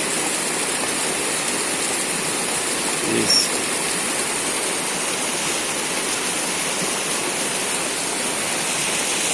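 Steady rush of water pouring over rocks, a cascade or small waterfall running constantly.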